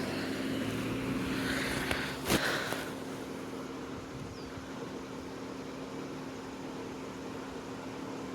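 A road vehicle running with a steady low hum, its noise easing after about three seconds, with one sharp knock a little over two seconds in.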